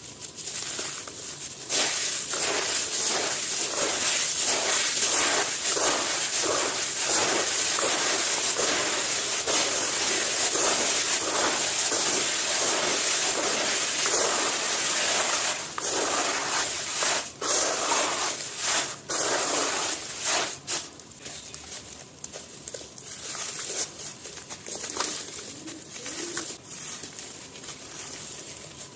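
Brittle material being crumbled and crushed by hand: continuous gritty crunching starts about two seconds in, then thins to scattered crackles and crumbles in the second half.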